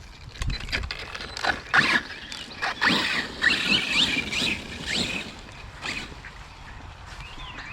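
Arrma Kraton 6S electric RC truck driven in short throttle bursts, its motor whine rising and falling repeatedly, with splashing and knocks as it churns through wet grass and mud.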